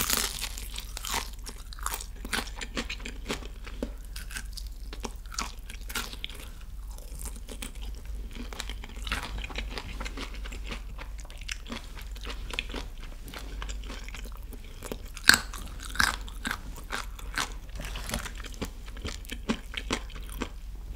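Close-miked chewing of crispy fried chicken: repeated sharp crunches of the fried crust between quieter chewing, with one especially loud crunch about fifteen seconds in.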